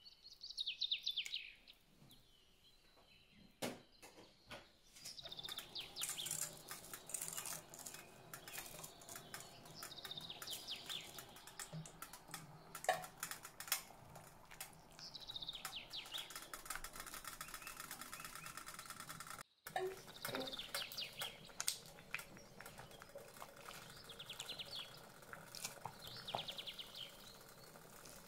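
A small bird repeating a short falling trill roughly every five seconds, with scattered light clicks and knocks in between.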